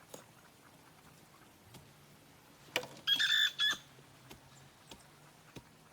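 A chicken gives one short squawk about three seconds in, just after a sharp click. A faint low hum runs underneath.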